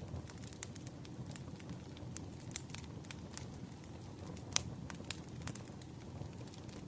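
Firewood burning: irregular sharp pops and snaps over a steady low rumble, the loudest snap a little past halfway.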